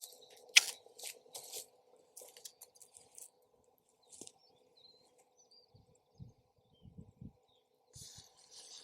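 Wood campfire crackling, with irregular sharp pops, the loudest about half a second in. Low rumbling thumps of wind on the microphone come in the second half.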